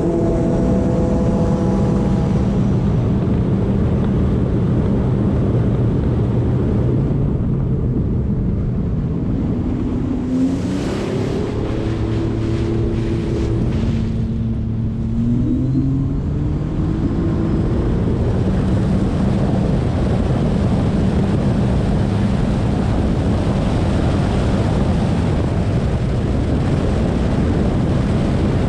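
Sea-Doo RXT-X 300 jet ski's supercharged Rotax three-cylinder engine running at speed, with wind on the microphone and water rushing past. About ten seconds in, the engine note drops as the throttle eases, alongside a burst of hiss. Around fifteen to seventeen seconds it climbs again.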